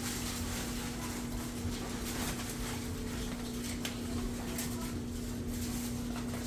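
A litter of puppies playing and scuffling, with a few faint yips and scattered clicks over a steady low hum.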